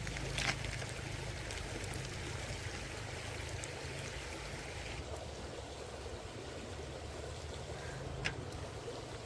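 Stream water flowing steadily, with two short sharp clicks, one about half a second in and one near the end.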